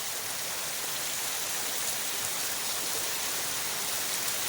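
Waterfall pouring steadily over rocks: an even, unbroken rushing hiss of falling water.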